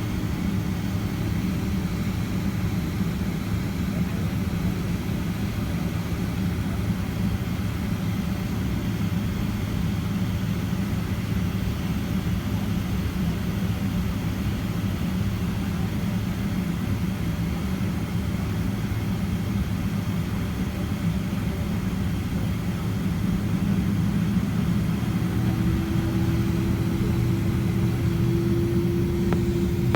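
Cabin noise of a Boeing 767-300ER with its engines at idle during taxi: a steady low hum and rumble. Near the end a higher steady tone comes in and the sound grows a little louder.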